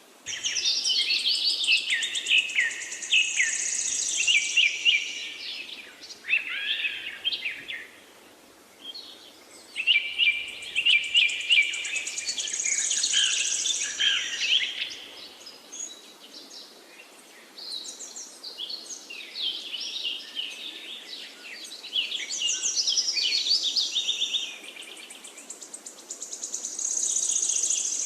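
Several songbirds singing together, a dense mix of quick chirps, whistles and a high buzzy trill. The singing comes in bursts of several seconds, with brief lulls between them.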